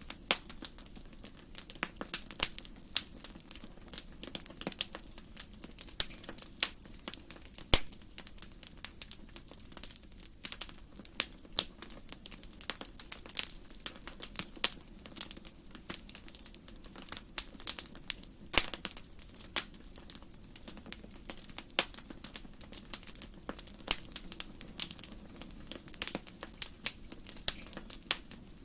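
Wood fire crackling in a fireplace: irregular sharp pops and snaps, some louder than others, over a low steady background.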